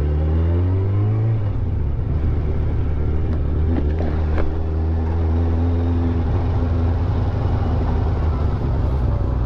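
Motorcycle engine running on the road, rising in pitch as it accelerates, then dropping at a gear change about a second and a half in and holding a steady pitch after that.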